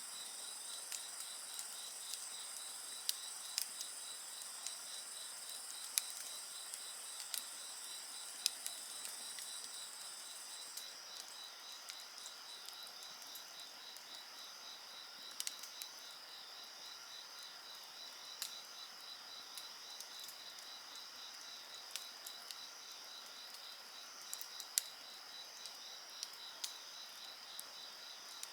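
Insects chirping steadily in several high-pitched layers, one of them pulsing rapidly; the highest layer stops about eleven seconds in. A wood fire crackles underneath with irregular sharp pops.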